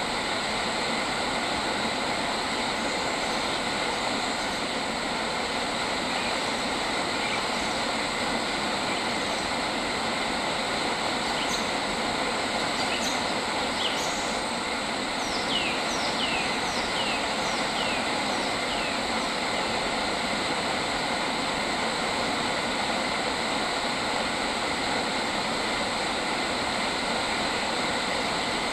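A bird gives a run of about six quick, downward-sliding whistles about halfway through, over a steady, dense hiss of outdoor ambience with several held high tones.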